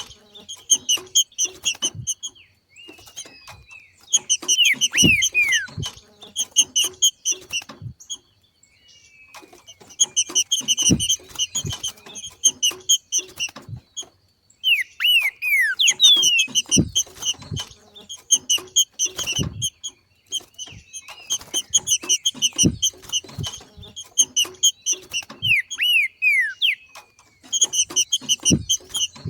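Green-winged saltator (trinca-ferro) giving its macheado, the call of a bird coming into breeding condition: bursts of rapid, repeated chattering notes a couple of seconds long, mixed with falling whistled slurs. There are brief pauses about eight and thirteen seconds in, and soft low thumps run underneath.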